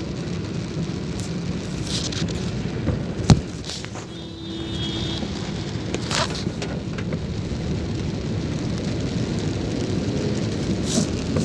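Rain and tyre noise from a car driving in the rain, a steady wash, with one sharp knock about three seconds in.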